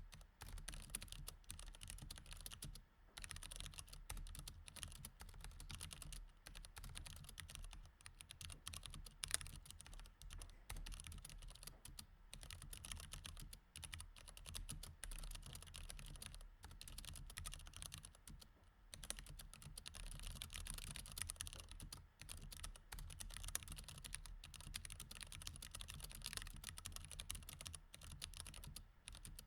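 Mechanical keyboard with Cherry MX Red linear switches being typed on steadily, a quick run of key clicks with a few short pauses.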